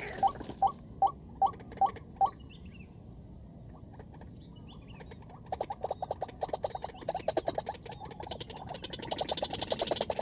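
White-breasted waterhen calls: a series of evenly spaced notes, about two and a half a second, that stops about two seconds in, then a rapid chattering run of notes from about halfway on.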